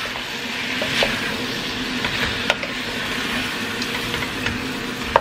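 Chicken, potatoes and vegetables sizzling in a pot as they are stirred with a wooden spoon, with a few sharp clicks of the spoon against the pot.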